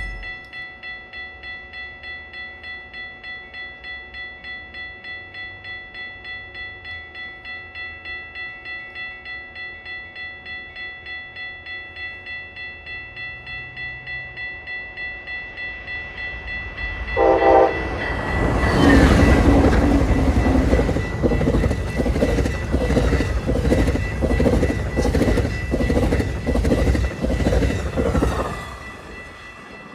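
Grade-crossing bell ringing in a steady rapid pulse. About 17 seconds in, a train horn gives a short blast, and a Metra train rushes through with its wheels clacking rhythmically over the rail joints for about ten seconds before it passes and the bell keeps ringing.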